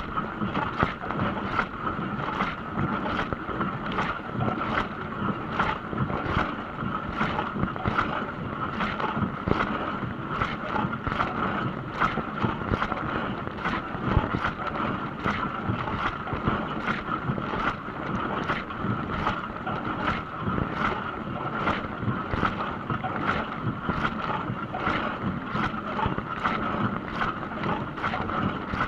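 Dishwasher running its wash cycle: a steady rush of water spray and pump noise, with a rhythmic swish repeating about one and a half times a second.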